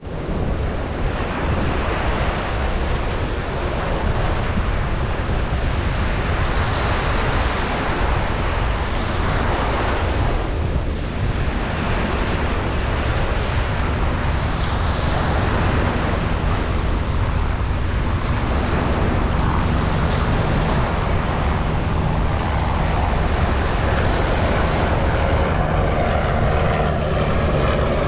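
Ocean surf washing onto a beach in repeated swells. A steady engine drone grows louder toward the end.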